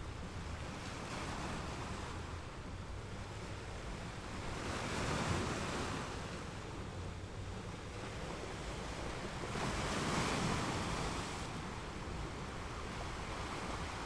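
Ocean surf: waves breaking and washing over rocks, a steady rush with two louder surges about five and ten seconds in.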